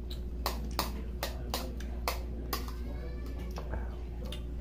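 A person chewing a mouthful of rice and spicy chicken, with a string of sharp wet mouth smacks, about two a second in the first half and sparser after, over a steady low hum.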